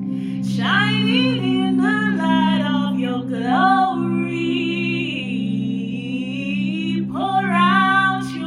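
Worship music: a solo singing voice with long, gliding sung phrases over a sustained low drone-like accompaniment.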